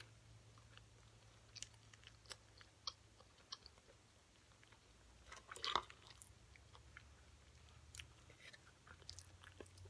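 Close-up chewing of a crunchy fried hush puppy, with faint crisp crunches and wet mouth clicks now and then, and a louder crunch a little past halfway.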